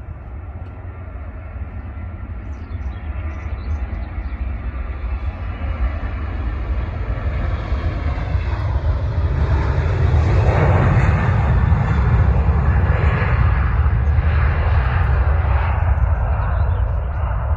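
Boeing 737 airliner taking off, its jet engines at takeoff power. The roar builds steadily, is loudest from about ten to sixteen seconds in, then eases a little.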